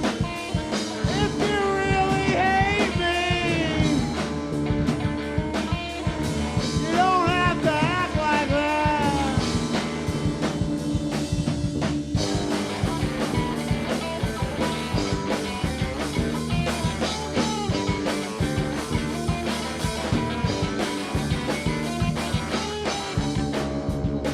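Live rock band playing a song, with a melodic lead line that bends and wavers in pitch twice, in two phrases in the first half.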